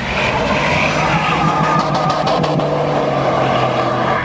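Car engine held at high revs, a loud steady drone under a haze of noise, with a few sharp cracks about two seconds in.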